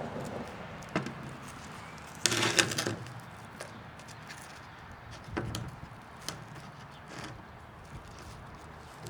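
A few knocks and clicks of handling, with a short loud sputter about two seconds in, as a paper smoke ball is lit.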